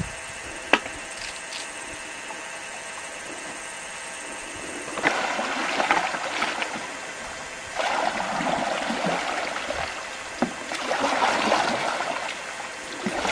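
Water splashing and rushing in three surges a few seconds long, the first beginning about five seconds in, with a sharp click under a second in.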